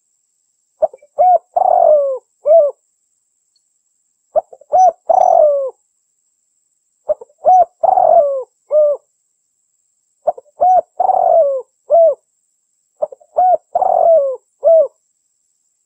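Female derkuku dove cooing. It repeats the same phrase five times, about three seconds apart. Each phrase is a few short notes, one longer coo falling in pitch, and a short closing note.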